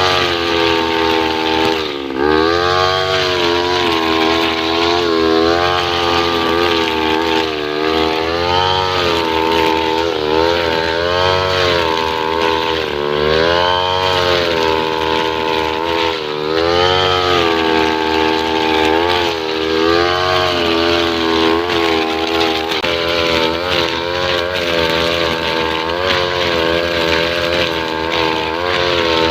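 Two-stroke brush cutter engine with a nylon-line trimmer head, running loud and continuously. Its pitch repeatedly dips and climbs back every few seconds as the engine speed changes.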